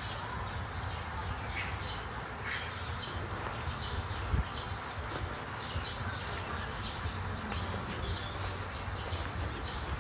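Birds chirping in scattered short calls over a steady low rumble, with a single thump about four seconds in.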